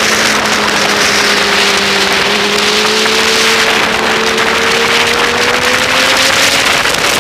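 Motorcycle engine running at steady revs under loud wind rush on an onboard camera; the engine note climbs slowly in the second half as the revs rise.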